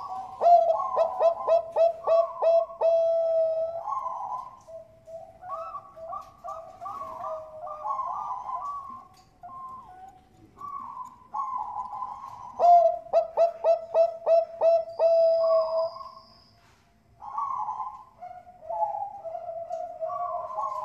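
Bangkok-line perkutut (zebra doves) cooing in long, overlapping, warbling phrases. A run of rapid stuttering notes comes about half a second in and again about thirteen seconds in.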